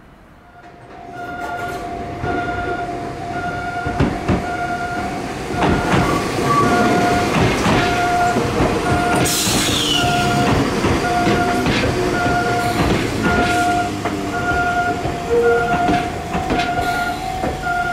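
An Enoden electric train runs past the platform with wheels clattering over the rail joints and a brief high squeal about nine seconds in. A level-crossing warning bell rings steadily throughout in a repeating two-tone pattern.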